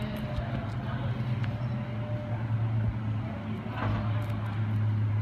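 MTR East Rail Line R-Train electric multiple unit in a tunnel, heard from inside the train: a steady low hum with rumbling running noise, growing louder about four seconds in.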